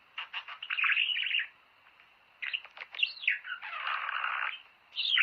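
Budgerigars chattering and warbling: three bursts of quick chirps, clicks and whistling notes with short pauses between them.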